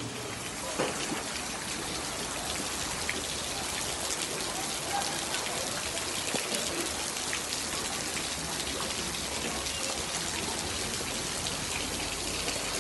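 Heavy rain falling steadily onto a flooded street, a dense hiss of drops splashing on the water.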